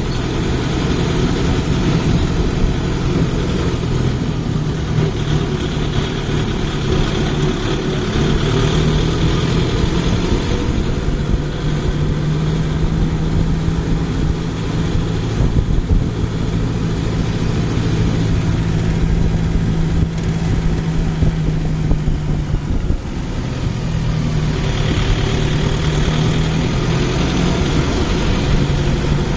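Tractor engine running steadily with a low, even note, its speed shifting slightly a couple of times.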